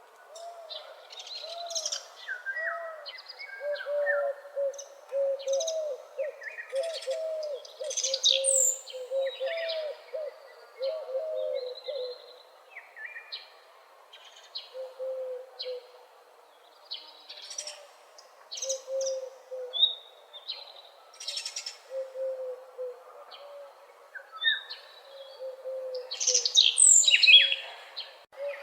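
Morning chorus of several birds singing and chirping, with a lower call repeating underneath, quick runs of it in the first half and spaced out later. A burst of loud, high chirps comes near the end.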